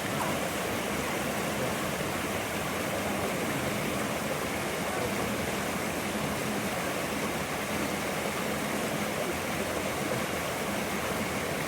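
Gentle stream flowing: a steady, even rush and burble of running water.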